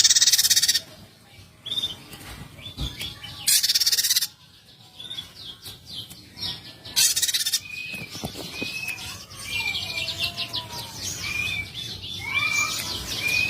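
Small songbirds calling. Three loud, harsh, buzzy bursts come with quick chirps between them. In the second half a series of short whistled notes repeats about once a second.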